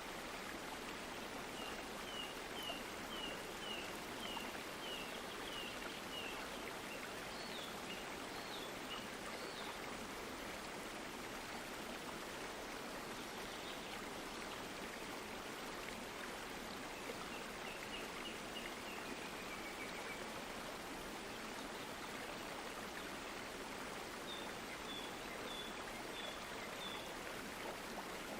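Steady running water of a stream. Series of short high chirps come in over it several times: a quick run of about a dozen falling chirps early, a falling trill near the middle, and another short run near the end.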